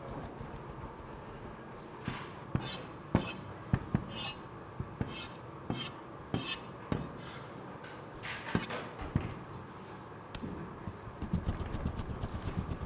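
Kitchen work with metal utensils: a run of about a dozen sharp knocks, each with a short scrape, coming about once every half second to second from about two seconds in and stopping about nine seconds in.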